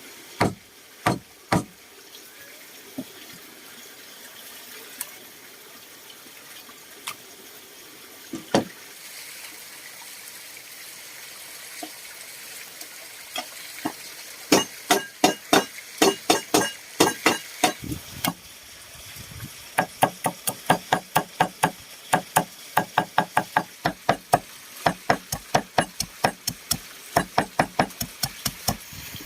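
Knife chopping on a cutting board: a few single knocks, then from about halfway fast runs of chopping at about four strokes a second. A steady hiss runs beneath.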